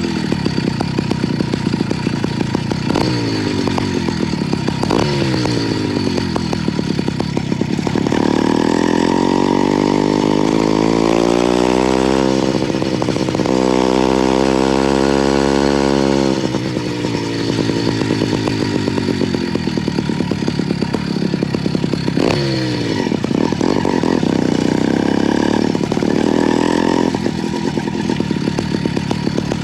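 YD85 two-stroke motorized-bicycle engine running on a ride. Its revs drop in a few falling sweeps early on, climb and hold high from about eight seconds in, ease off about halfway through, then dip and rise again several times near the end.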